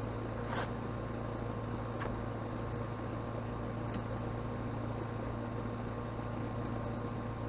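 Steady low machine hum, with a few faint clicks about half a second, two seconds and four seconds in.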